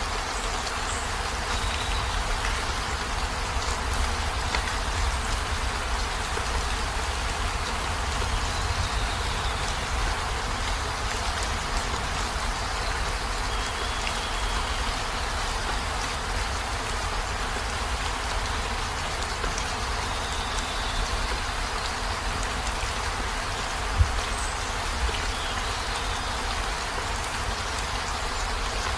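Heavy rain falling steadily on a van's roof and windows, a dense even patter over a deep low rumble. One sharp tap stands out late on.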